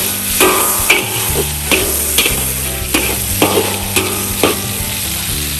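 Food frying and sizzling in hot oil while a spatula stirs and scrapes the pan in quick strokes, about one every half second. The stirring stops near the end and the sizzle carries on.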